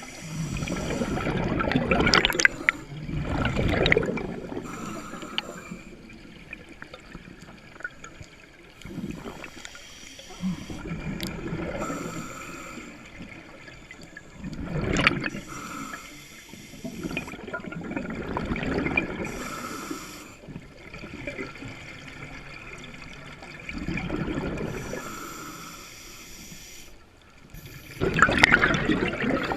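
Scuba diver breathing through a regulator underwater: a rumbling burst of exhaled bubbles every few seconds, with quieter hissing between them.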